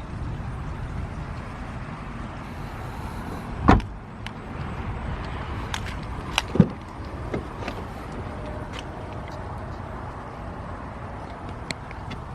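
A steady low rumble around a car, with one heavy thud about four seconds in, a lighter knock a few seconds later and scattered light clicks, as the trunk and doors are handled.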